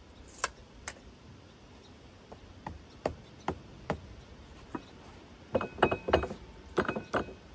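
Metal tools and sawmill hardware clinking and knocking while the splitter is being adjusted: single sharp taps every half second or so at first, then a quicker cluster of clinks in the last two seconds, a few with a brief metallic ring.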